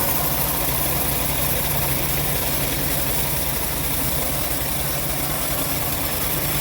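Engine of a homemade bandsaw mill running steadily, a constant low hum under an even hiss.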